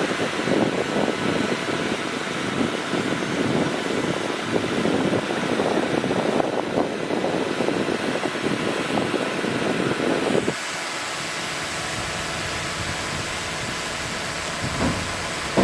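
Bulldozer machinery running with a rough, noisy sound; about ten and a half seconds in it changes abruptly to a smoother, steadier hum.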